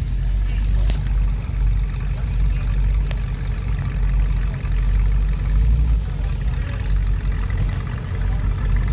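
Classic car engines running slowly past at low speed: a steady low rumble.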